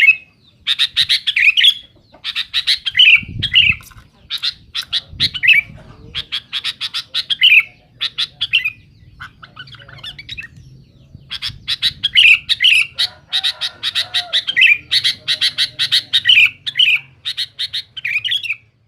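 Sooty-headed bulbul (kutilang) singing loudly and insistently, in repeated phrases of rapid chattering notes, most ending in a short falling note, with a brief lull about nine seconds in. It is the excited challenge song used to provoke a rival kutilang into answering.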